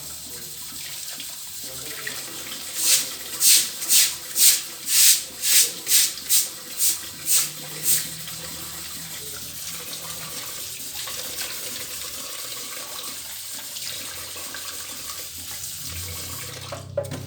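Stiff scrubbing brush worked hard over wall tiles to lift grime, in a run of about eleven quick strokes, roughly two a second. Under it is the steady hiss of running water.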